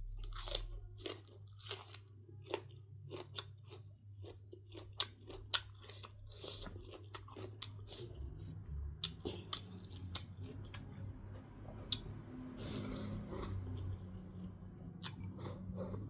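Close-miked chewing and crunching of food, with irregular sharp crunches and wet mouth clicks as bites are chewed.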